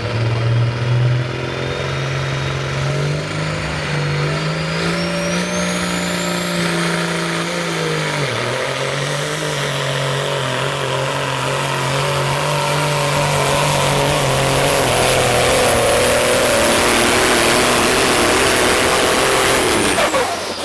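Limited Pro Stock semi truck's diesel engine at full power pulling the sled. A high whine climbs over the first several seconds, the engine note dips briefly about eight seconds in, and the sound builds louder before cutting off suddenly near the end.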